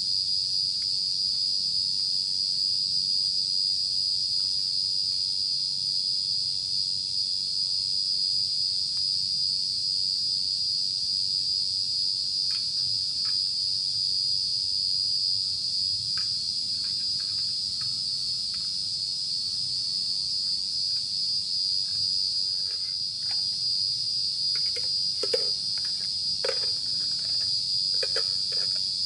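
Night insect chorus: a steady, unbroken high-pitched drone. From about halfway on, short faint clicks and knocks come in, more often near the end.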